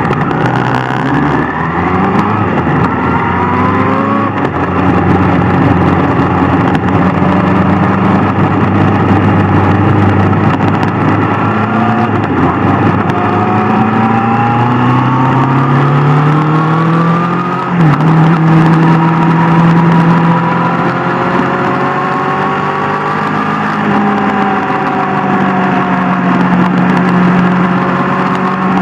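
Superbike engine under way, its pitch climbing as it accelerates, then dropping sharply once, a gear change, about two-thirds through and holding fairly steady after, with steady wind and road noise.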